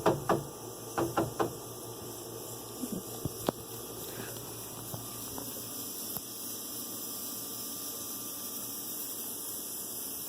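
A few light knocks and clatters in the first second and a half, one more about three and a half seconds in, then a steady hum.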